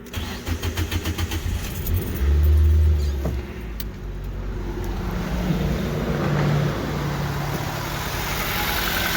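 2006 Nissan Sentra 1.8 four-cylinder engine being started: the starter cranks in quick pulses for about two seconds, the engine catches with a brief loud rev, then settles into a steady idle. It is running on newly replaced ignition coils and spark plugs, fitted to cure a misfire shake at start-up.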